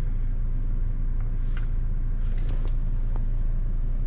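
Toyota Hilux engine idling with a steady low rumble, with a few faint clicks over it.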